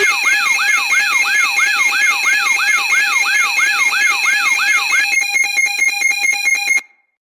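Loud electronic alarm: a falling wail repeating about three times a second over steady beeping tones. About five seconds in it switches to a rapid stutter of pulses, then cuts off abruptly.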